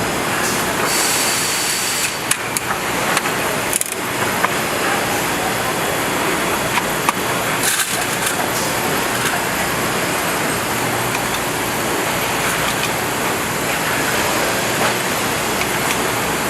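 Steady factory-floor machinery noise with scattered clicks and knocks.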